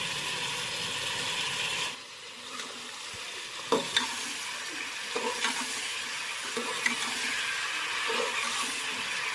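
Onions frying in hot mustard oil in a large pot, sizzling steadily, with a few short knocks of a ladle against the pot as it is stirred. The sizzle drops a little about two seconds in.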